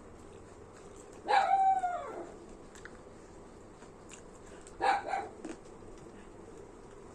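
A dog barking twice, a drawn-out call about a second in that falls in pitch, then a shorter one about five seconds in.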